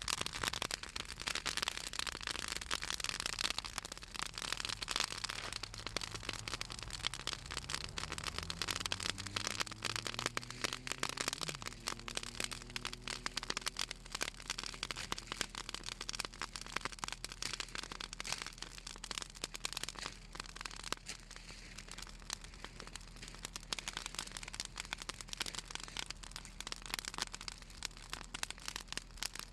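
Southern magnolia branches burning in an open bonfire, crackling with dense, irregular pops; the oil in the wood makes it crackle. A faint low hum rises in pitch in the background for several seconds around the middle.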